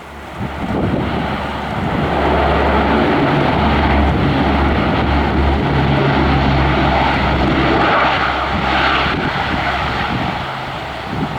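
Passenger aircraft's engines passing close by: the noise builds over about two seconds, holds loud and steady, then fades somewhat near the end.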